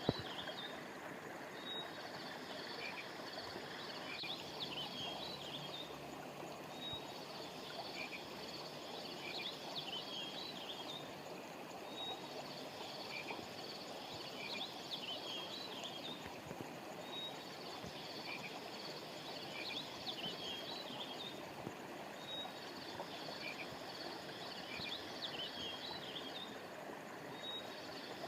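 A river or stream running steadily, under a chorus of high chirping calls that swells every few seconds, with short single peeps in between.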